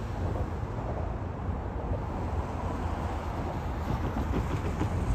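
Low, steady rumble of an approaching CSX train, a diesel locomotive with a gage restraint laser measurement car, heard from a distance and growing slightly louder.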